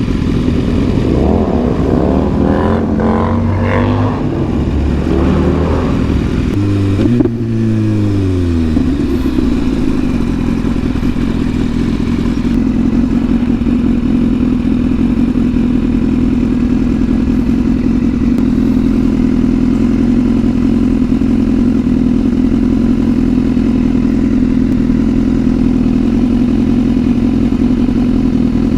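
Sport bike engine under way, its note rising and dropping several times as it pulls through the gears, with a sharp click about seven seconds in, then running at a steady cruising pitch.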